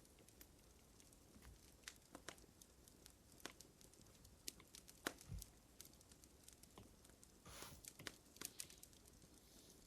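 Faint crackling fire: irregular pops and snaps, with a short hiss about seven and a half seconds in.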